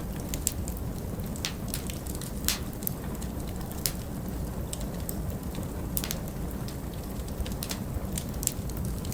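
Log fire crackling, with irregular sharp pops and snaps over a steady low rush of winter wind.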